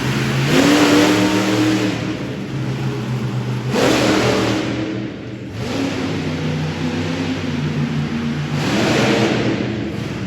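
Monster truck engine revving hard in repeated bursts, about a second in, around four seconds in and again near the end, dropping back between them.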